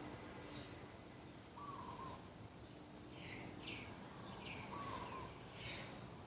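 Doves cooing in short calls, with other birds chirping several times over a faint outdoor background.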